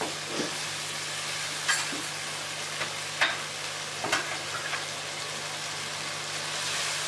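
Chicken and spice paste sizzling as they fry in oil in a non-stick wok, the bhuna stage of a curry. A wooden spatula knocks and scrapes against the pan several times in the first four seconds or so, after which the steady sizzle carries on alone.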